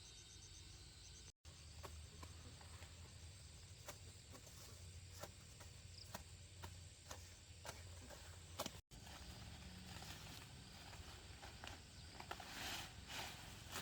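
Faint outdoor background with a low hum and scattered small clicks and taps, cutting out briefly twice, with a short rustle near the end.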